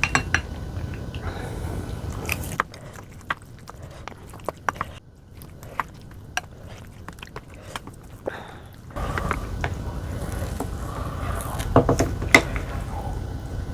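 A person chewing and biting food close to the microphone: scattered sharp, wet mouth clicks and crunches. A low background hum drops away for several seconds in the middle and returns.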